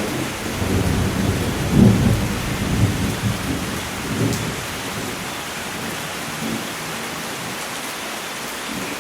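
Steady rain with a rolling peal of thunder that builds quickly, peaks about two seconds in with a few louder surges, and rumbles away over the next few seconds.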